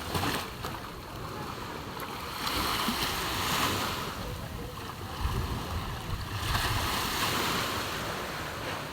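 Sea waves breaking and washing up the beach, two surges swelling and fading a few seconds apart, with some wind on the microphone.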